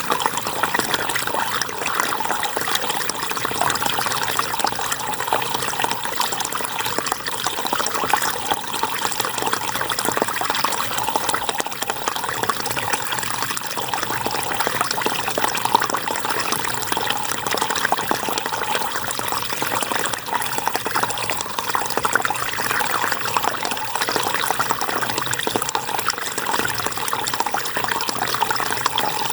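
River water flowing and splashing in a steady, continuous rush.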